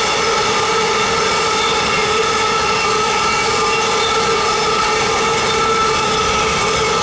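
Freight train of covered hopper wagons rolling past at steady speed. A continuous rolling rumble carries a steady high ringing from the wheels on the rails.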